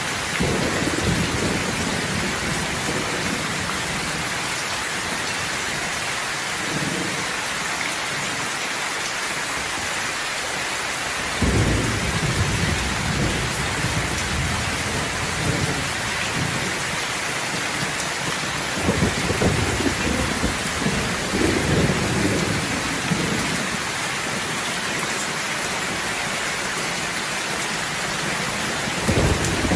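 Steady rain hissing down in a thunderstorm, with low rolls of thunder rumbling in several times: about a third of the way in, again past the middle, and near the end.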